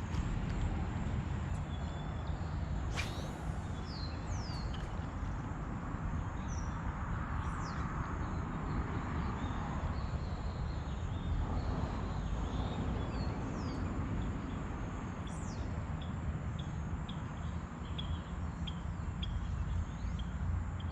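Small birds chirping, with short calls and a few quick falling whistles, over a steady low rumble.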